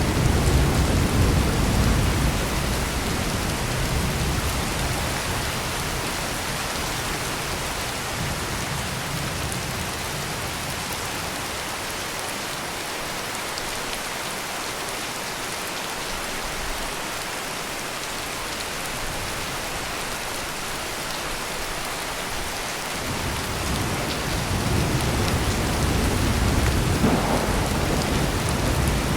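Heavy rain pouring steadily, with thunder rumbling low at the start, dying away, then a new roll building again near the end.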